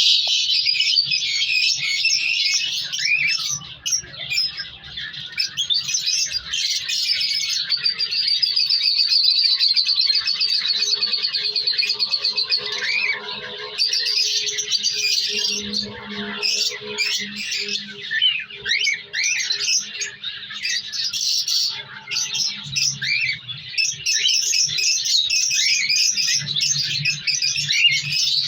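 Cockatiels squawking and chirping almost without pause, many short calls overlapping.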